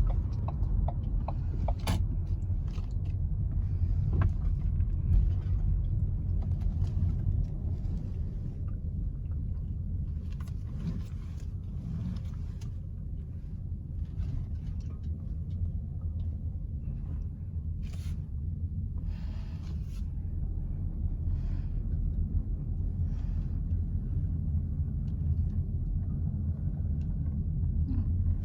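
Park water fountain running: a steady low rumble, with fainter splashing hiss that comes and goes.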